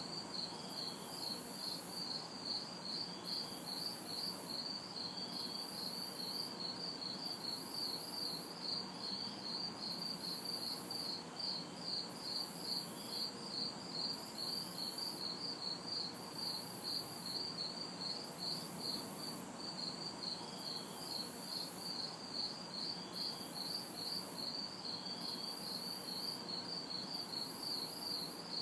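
Night chorus of crickets chirping steadily at about four chirps a second, with a higher insect trill pulsing on and off about once a second. Faint distant city traffic makes a low, even hum underneath.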